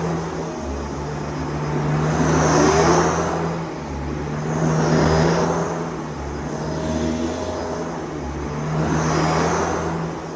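Vacuum cleaner running steadily with a low motor hum. Its rushing airflow and a high whistle swell three times, as the cleaner is pushed and pulled across the floor.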